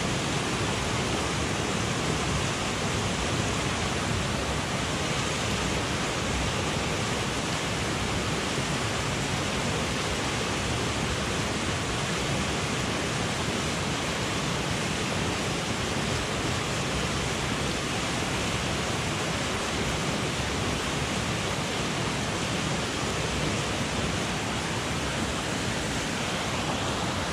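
Mountain headwater stream rushing, a steady, unbroken wash of water noise.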